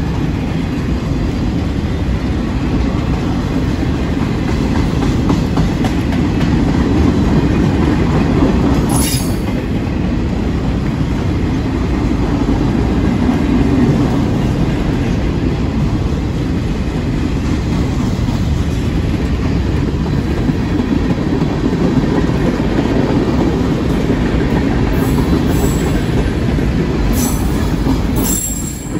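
Freight train cars rolling past at close range: a steady heavy rumble of steel wheels on rail. Brief high-pitched wheel squeals come about nine seconds in and again near the end.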